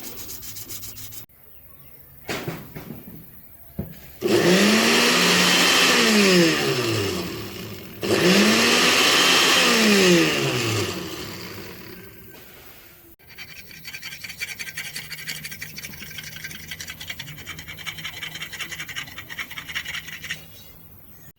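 Restored Oster blender's motor run in two short loud bursts, each rising in pitch as it spins up and falling as it winds down. Then a longer, quieter, steadier run with a fine rattling buzz.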